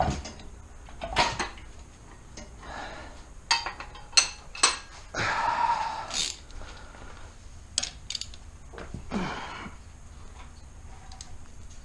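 Scattered metal clinks and knocks of hand tools and fasteners being handled, with a longer scraping rustle about five seconds in.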